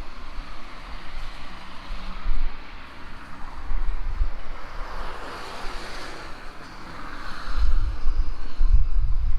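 Wind buffeting the microphone in gusts, with low rumbles around two seconds in and again through the last couple of seconds, over a steady outdoor hiss that swells up in the middle.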